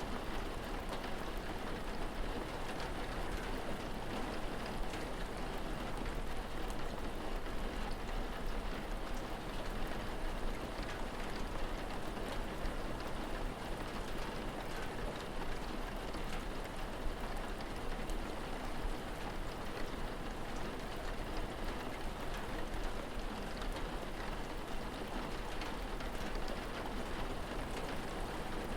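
Steady rain falling, a dense even patter of drops with a low steady rumble underneath.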